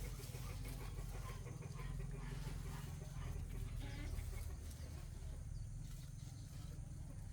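Chickens clucking over a steady low hum.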